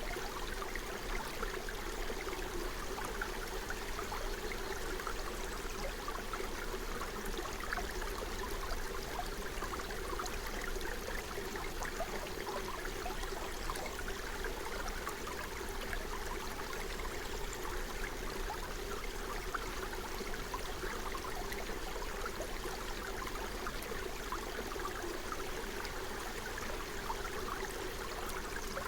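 A small forest stream flowing and babbling steadily, with a fine trickling texture and an even, continuous rush of water.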